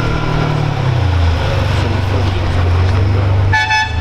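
Car engine running at low revs, its pitch easing down about a second in; near the end a car horn sounds in several quick beeps.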